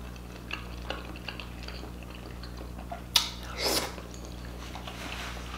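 Close-miked eating sounds: quiet chewing of seafood-boil food with small wet mouth clicks, a sharp lip smack about three seconds in, then a brief louder wet mouth sound.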